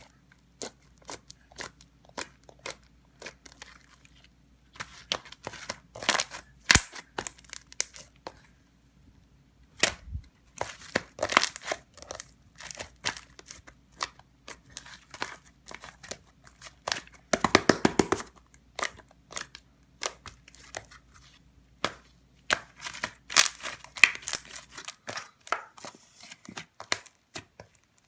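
Slime being handled and kneaded by hand, giving irregular sticky pops and crackles, with a quick run of pops about two-thirds of the way through.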